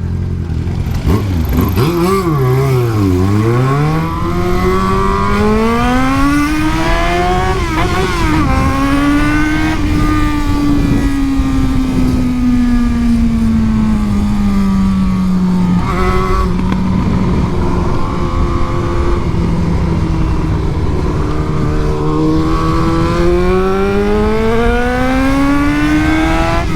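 Yamaha XJ6's 600 cc inline-four running loud as the motorcycle is ridden. The revs dip and pick up again in the first few seconds, climb to a gear change about eight seconds in, ease off slowly with another change around sixteen seconds, then rise again near the end.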